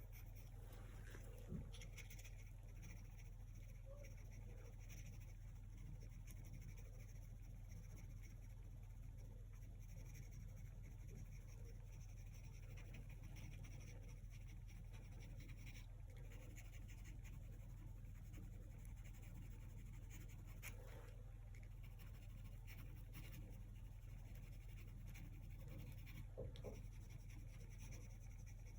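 Faint, scratchy strokes of a paintbrush working acrylic paint over a surface, over a steady low hum, with a single small tick about a second and a half in.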